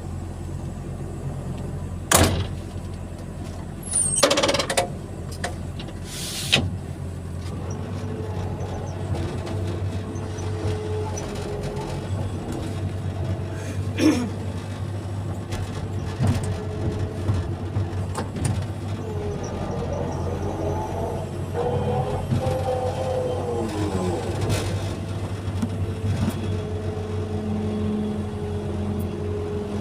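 Excavator's diesel engine running steadily while it works, with a whine that rises and falls in pitch as the hydraulics move, and a few sharp metallic clanks, the loudest about two seconds in.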